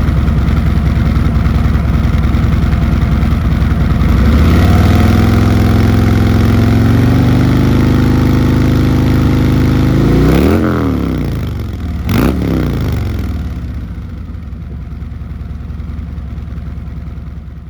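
Harley-Davidson Road Glide Special's Milwaukee-Eight V-twin running through S&S Power Tune headers and SVT Jackhammer mufflers. It idles with a deep, throaty sound, comes up to a slightly higher, louder idle about four seconds in, and is blipped twice, about ten and twelve seconds in, before settling back quieter.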